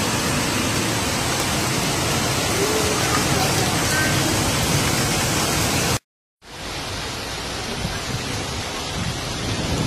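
Steady, dense hiss of heavy rain and rushing floodwater. It drops out briefly about six seconds in, then comes back as a somewhat quieter, duller rain hiss.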